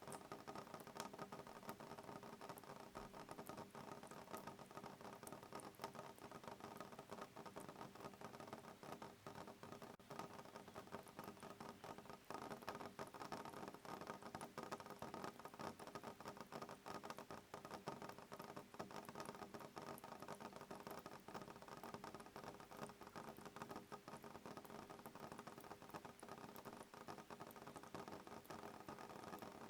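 Soft rain falling on a window pane: many small drop ticks over an even hiss, steady throughout.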